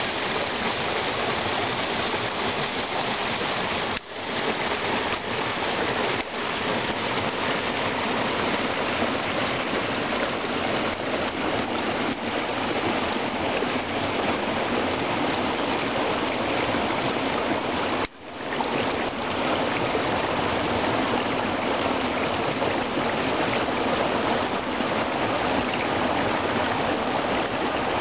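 Spring meltwater running and splashing in a steady rush of water. The sound cuts out briefly twice, about four seconds in and again near eighteen seconds, then resumes.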